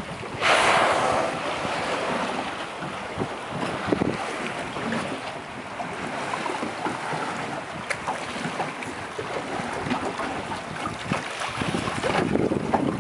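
Wind buffeting the microphone and water lapping around a small boat, with a sudden loud rushing whoosh about half a second in that fades over roughly a second, and scattered light knocks.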